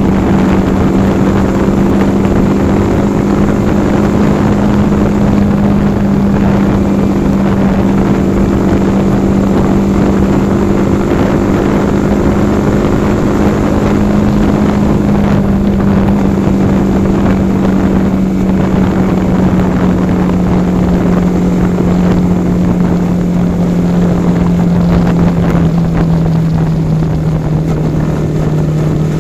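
Yamaha R15 V4's 155 cc single-cylinder engine running at steady cruising revs on the move, with wind rushing over the microphone. The engine note eases slightly lower near the end as the revs drop.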